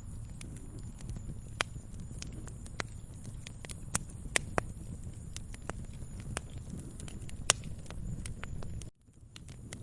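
Wood fire crackling in a fireplace: irregular sharp snaps and pops, a few louder than the rest, over a low steady rumble of the flames. The sound drops out for a moment near the end, then resumes.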